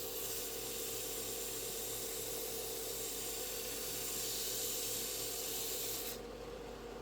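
Steady hiss over a constant hum that cuts off abruptly about six seconds in.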